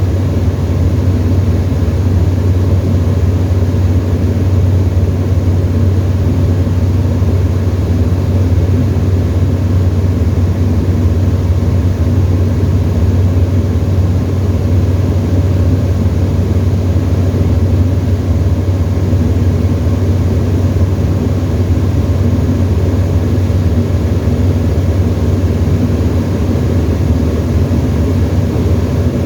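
Tecnam ultralight's piston engine and propeller running at a steady cruise, a constant low drone heard from inside the cockpit.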